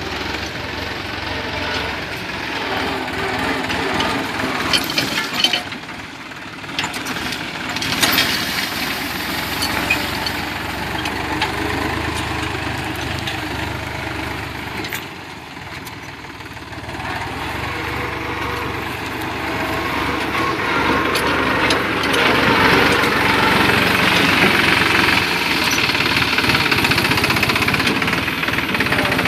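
New Holland 49 hp, 2700 cc diesel tractor engine running steadily while pulling a six-disc plow, with a few sharp knocks a few seconds in. It grows louder in the last third.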